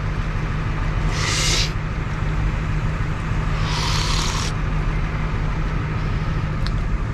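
Vehicle engine running steadily with a low drone, heard from inside the cabin. Two short hissing rustles come over it, about a second in and again about four seconds in.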